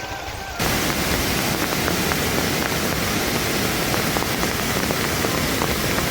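Heavy rain falling steadily, a dense hiss with scattered drop ticks, cutting in suddenly about half a second in.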